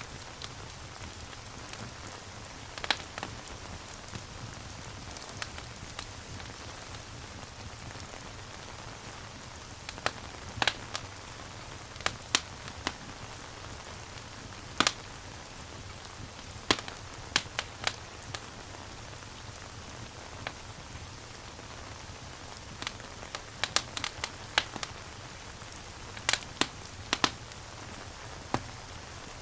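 Steady rain mixed with a crackling wood fire: an even rushing hiss with sharp pops at irregular intervals, several in quick clusters around the middle and near the end.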